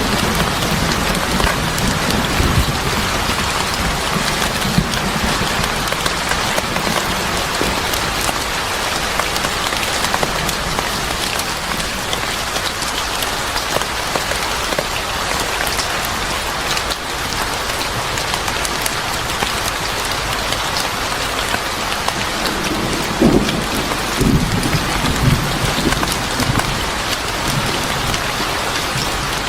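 Steady rain falling on a hard surface, a dense even hiss, with a few low rumbles about three-quarters of the way through.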